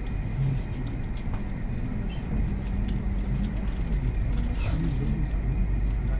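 Electric commuter train running between stations, heard from inside the carriage: a steady low rumble with scattered light clicks and rattles.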